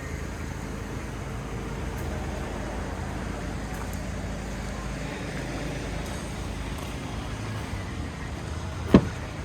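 Steady low vehicle rumble, with one sharp knock about nine seconds in.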